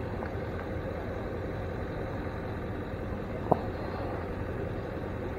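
Steady low rumble of idling vehicle engines, with a single sharp click about three and a half seconds in.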